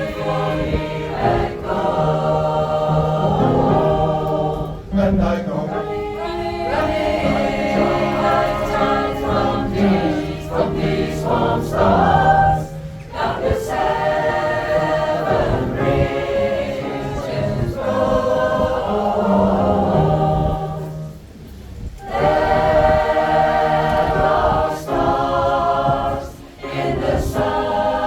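Pop choir singing a song together in several voice parts, with sustained notes over a steady low line, and a brief drop in level about two-thirds of the way through.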